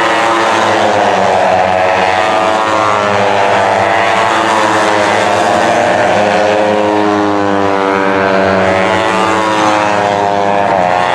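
Several racing superbike engines running at high revs, their pitch repeatedly rising and falling as they accelerate and shift.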